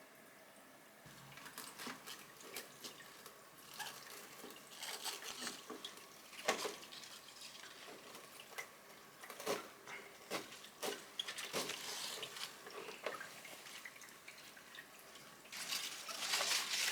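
Water dripping and splashing in a kitchen, with scattered light clicks and knocks and a short stretch of denser running water near the end.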